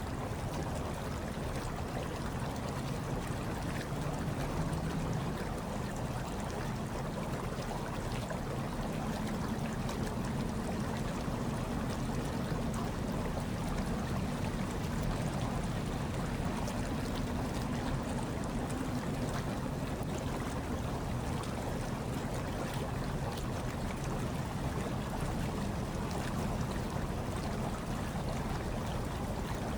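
Hot tub water bubbling and churning steadily, with a low rush underneath and a fine fizzing crackle over it.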